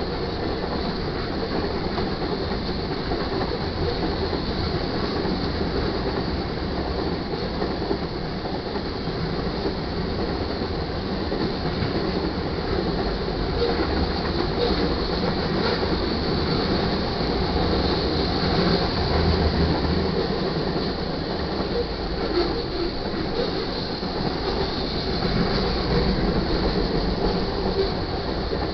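Freight train's covered hopper cars rolling past at close range: the steady noise of steel wheels running over the rails, swelling a little now and then as cars go by.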